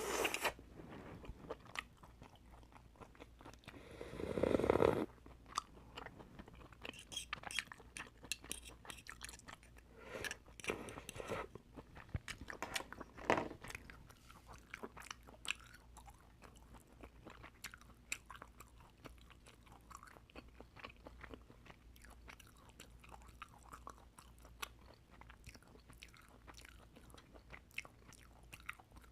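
Close-miked eating of oysters: chewing and biting with many small clicks and wet smacks, with a louder, longer burst about four seconds in and further louder clusters around ten and thirteen seconds.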